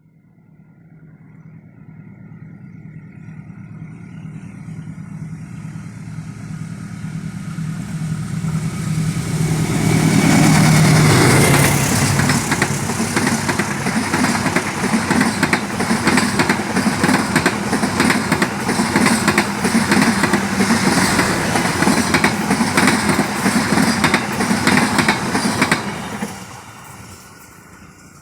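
A train passing close by. The engine sound builds steadily and its pitch falls as it goes past. Then a long run of wheels clatters rhythmically over the rail joints until the last cars go by and the sound drops away near the end.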